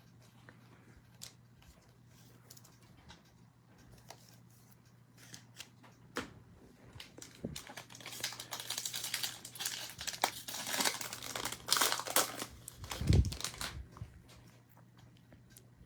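Foil trading-card pack wrappers crinkling and tearing as packs are opened, with a few light clicks first and then dense crinkling for the second half.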